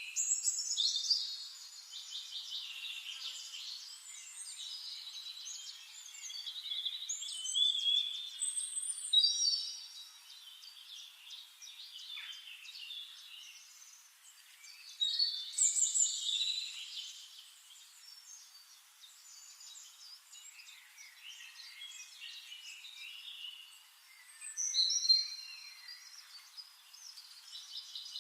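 Several songbirds singing and chirping together, overlapping high trills and whistled phrases with louder bursts of song every several seconds.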